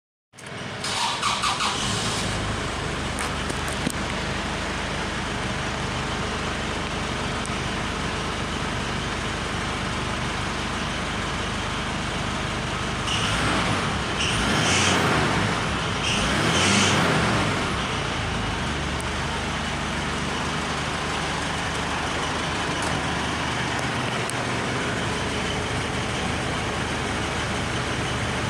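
Ford Ranger pickup's engine running at a steady idle, revved up twice about halfway through and then settling back to idle.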